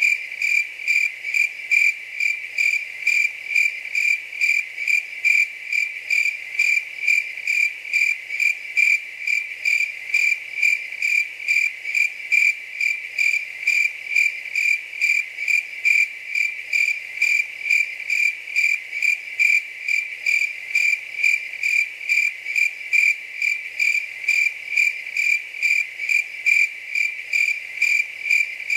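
Cricket chirping in a steady, even rhythm, about two to three short high-pitched chirps a second, without a break.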